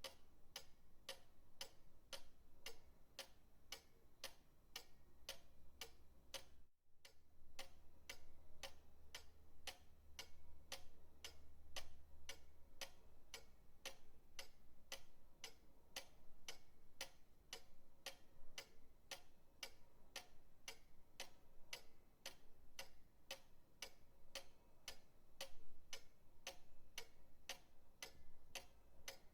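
Pendulum clock ticking steadily, about two ticks a second, over a faint low hum. The sound cuts out for an instant about seven seconds in.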